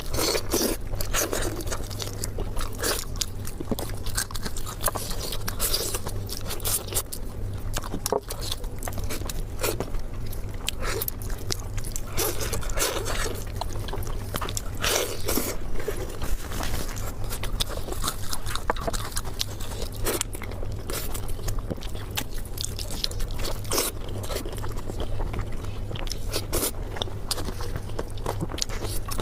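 Close-miked eating: a person chewing and crunching food, with many irregular crisp crackles and bites, over a steady low hum.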